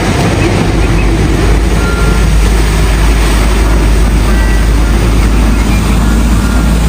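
Heavy truck engine running: a loud, steady, low rumble with a noisy rattle over it, most likely a sound effect laid over the toy tanker truck.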